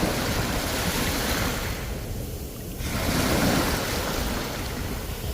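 Sea waves breaking and washing on the shore: a steady rush of surf that eases off briefly, then a new wave surges in about three seconds in.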